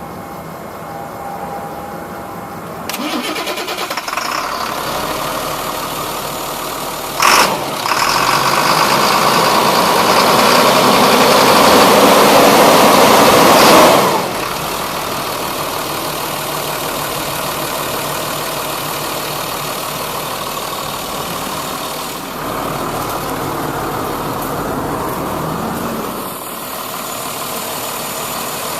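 Ford flatbed dump truck's engine running: it comes up about three seconds in, a sharp knock sounds near seven seconds, then the engine is held at higher revs for about six seconds, rising, before dropping back to a steady idle.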